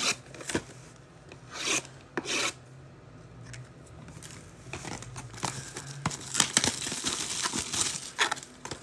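Packaging of a retail trading-card mega box being opened by hand: cardboard and wrapping scraped, torn and rustled. A few short scratchy strokes come first, then denser rustling from about halfway through.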